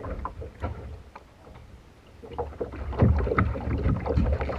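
Kayak on the water: scattered knocks and clicks of paddle and hull over a low rumble, getting busier and louder about halfway in.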